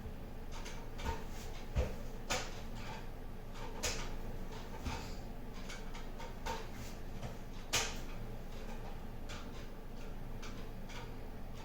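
Herman Miller Aeron office chair squeaking and creaking: short, irregular squeaks and clicks, the sharpest one about eight seconds in, the sign of a squeak fault in the chair.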